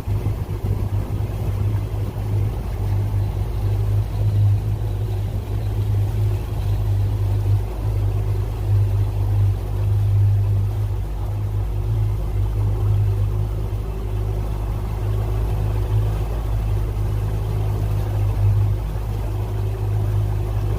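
Tour boat's motor running steadily at a constant speed, a low, even drone.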